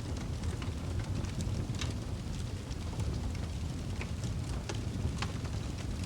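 Wood fire burning in a fireplace: a steady low rumble of flame with irregular sharp crackles and pops scattered through it.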